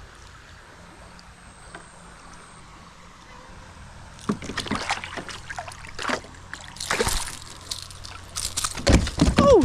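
Water sloshing and splashing with irregular knocks, starting about four seconds in after a quiet low hum, as a hooked Australian bass is fought and brought in at the boat.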